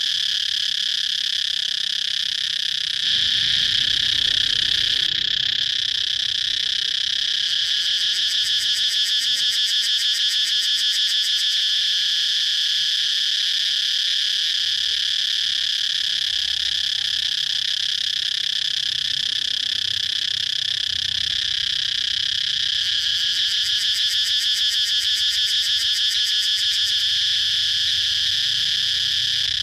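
Cicadas calling in a continuous high-pitched, shrill drone. Twice it takes on a rapid, even pulsing: once about a quarter of the way in and again near the end.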